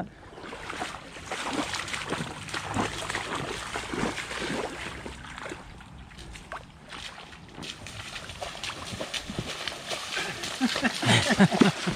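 Walking boots splashing and sloshing through floodwater and deep mud as a hiker runs along a waterlogged path, in quick irregular footfalls.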